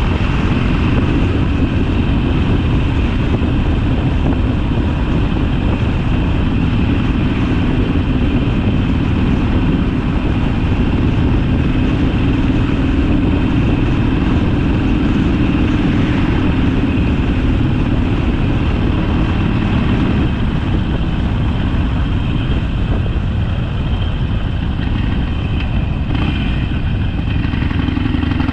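Harley-Davidson Sportster's air-cooled V-twin engine running while the bike is ridden. The engine note is steady, eases off about two-thirds of the way through, and picks up again near the end.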